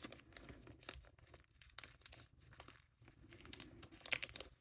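Faint rustling and crinkling with many light clicks: small beading findings and their packaging being handled and sorted through.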